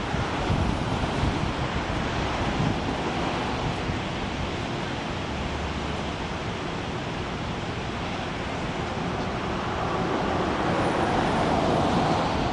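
Ocean surf washing steadily, with wind rumbling on the microphone; the wash swells louder near the end.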